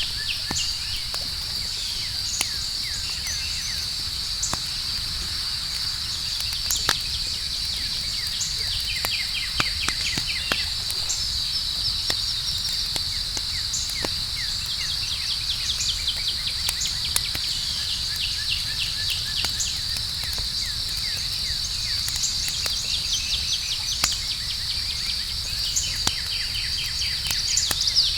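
Campfire crackling, with scattered sharp pops, over a steady high-pitched cricket chorus. Runs of quick chirps come and go on top.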